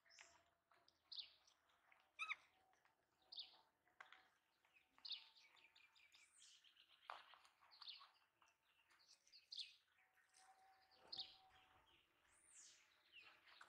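Faint, high chirping calls from a small bird, repeated about once a second, with a couple of longer rising-then-falling whistles among them.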